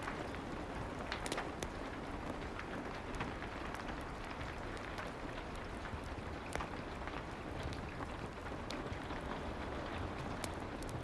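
Steady soft rain ambience, an even hiss with scattered sharp ticks throughout.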